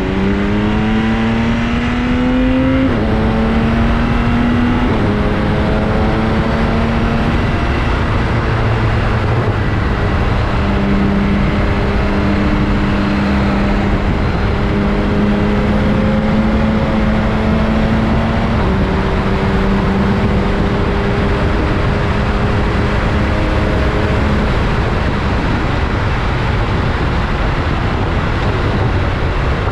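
BMW K1600GTL's inline-six engine through a Hattech aftermarket muffler, pulling up through the revs, then dropping in pitch at two upshifts about three and five seconds in. It then holds a steady cruise with small rises and falls in pitch, over a constant rush of road and wind noise.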